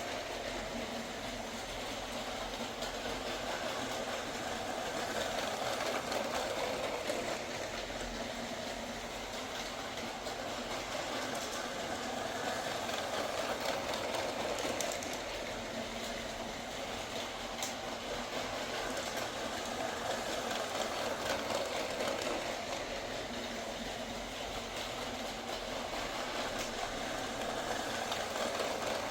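Lego train's small electric motor and plastic wheels whirring steadily along the track, growing louder and fainter about every seven or eight seconds.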